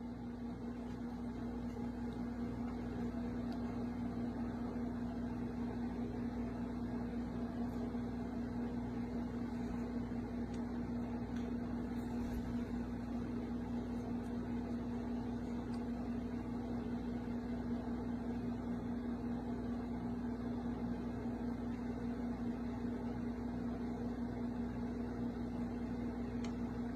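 Steady low mechanical hum with one strong tone, like a small motor or fan running, without a break.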